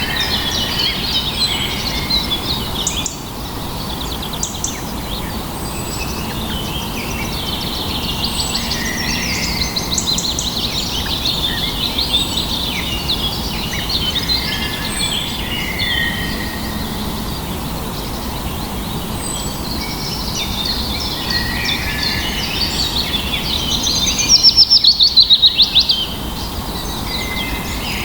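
Several songbirds singing and calling at once, overlapping chirps, whistles and trills over a steady low background hiss. A loud, fast trill stands out for about two seconds near the end.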